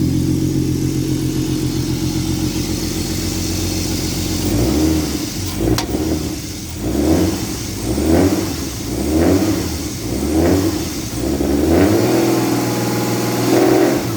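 Turbocharged BMW M50 straight-six in an E36, straight-piped, running cold just after a cold start. It first holds a steady idle for a few seconds, then the revs rise and fall about once a second, with one sharp click near the middle. The engine is rough when cold because its tune is set up for full throttle, not for cold starting.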